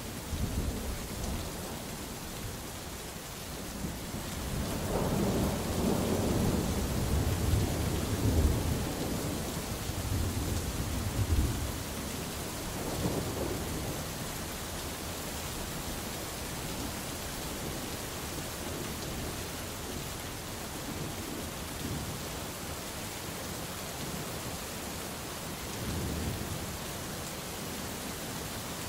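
Steady rain with rolling thunder: a long low rumble builds about four seconds in and rolls on for some eight seconds, with fainter rumbles later, under the constant hiss of the rain.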